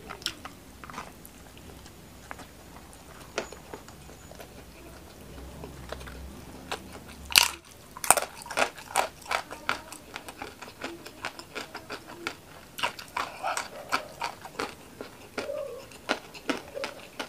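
Close-miked mouth sounds of a person eating with their hand: scattered small clicks and smacks, then a loud bite about seven seconds in, followed by steady crunchy chewing.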